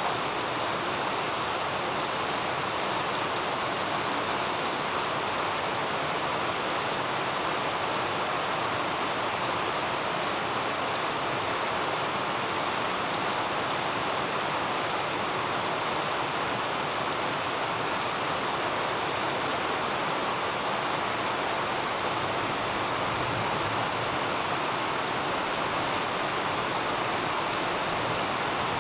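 Thunderstorm rain falling steadily, an even, unbroken hiss with no thunderclaps.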